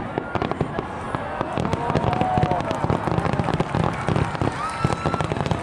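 Starmine fireworks barrage: shells bursting in rapid succession with overlapping bangs and crackles, several each second, with no let-up.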